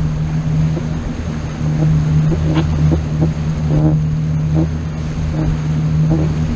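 Motorboat engine running at a steady drone under way, with wind and water rushing past.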